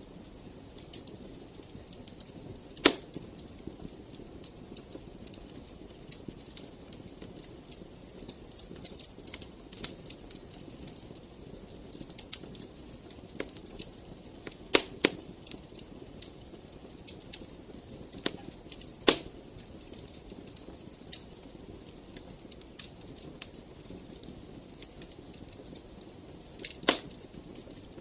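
Fireplace fire crackling: a steady soft background scattered with small ticks, and four loud, sharp pops spread through it.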